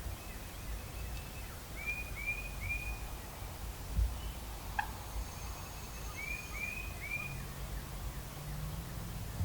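Turkey calling in the woods: two sets of three short arched calls, the first about two seconds in and the second just past six seconds. A low steady hum comes in near the end.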